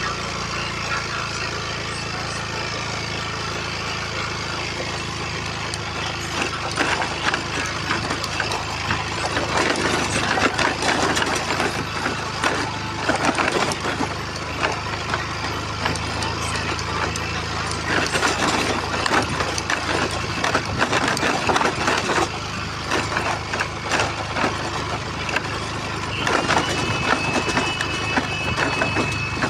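A vehicle engine running steadily, with dense crackling and rattling layered over it from about six seconds in.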